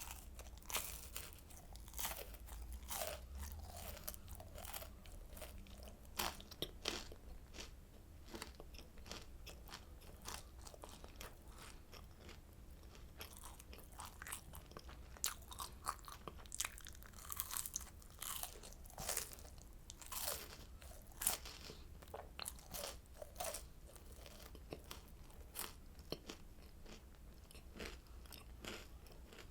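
Close-miked crunching and chewing of oranda, a Korean candy of small crisp puffs bound in hardened syrup. Irregular sharp crunches go on throughout, over a low steady hum.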